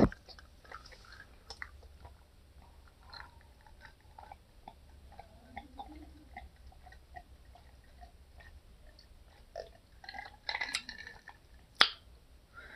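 A person chewing food close to the microphone, with soft wet mouth clicks throughout and a short, louder crackle about ten and a half seconds in.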